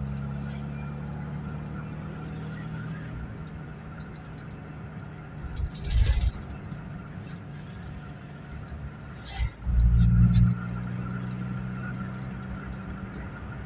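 Ford Fiesta Mk2 XR2's carburetted 1.6-litre four-cylinder engine running while the car drives, over tyre and road noise. The engine note is loud at first, eases off, then comes back loud for about a second near ten seconds in. A single thump about six seconds in.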